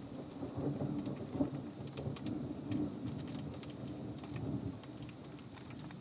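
Heavy rain falling during a thunderstorm, with a low rolling rumble of thunder that fades near the end and scattered raindrops ticking close by.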